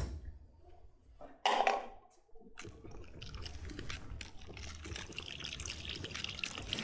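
Drink-vending machine pouring liquid into a cup: a click at the start and a short burst about one and a half seconds in, then a steady pour from a little past two seconds.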